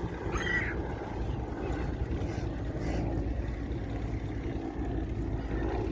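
Boat engine running with a steady low hum, and a brief high squeak about half a second in.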